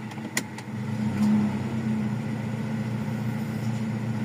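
Toyota Revo 1RZ four-cylinder petrol engine idling, with a sharp click just under half a second in. About a second in the engine note rises and then holds steady as the air conditioning comes on and the idle-up raises the idle.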